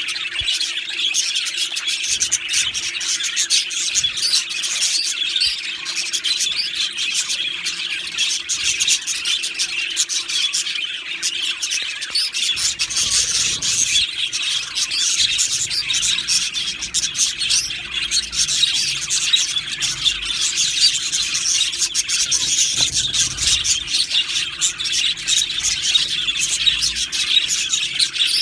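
Budgerigars chattering and chirping without a break, many high chirps overlapping at once.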